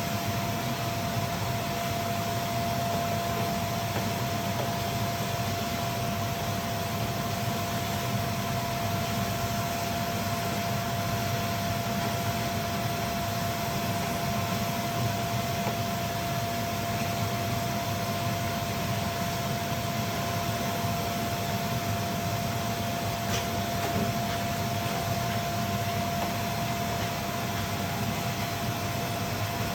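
Steady machine hum and hiss with a constant whine, unchanging throughout.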